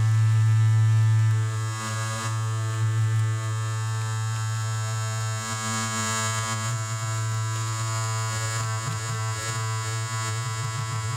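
Electric shaver running with a steady buzz, a little louder for the first second and a half.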